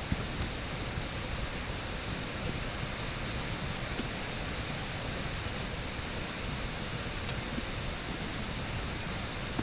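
Steady rushing of a waterfall ahead, an even, unbroken noise of falling water.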